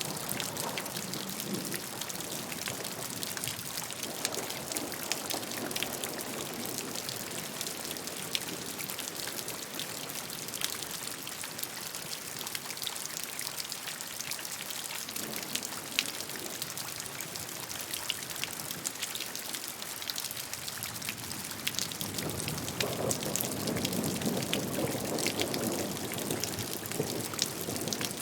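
Steady rainfall: an even hiss with many individual drops ticking. A heavier, fuller pour swells in about three-quarters of the way through.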